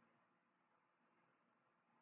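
Near silence: faint steady hiss and hum.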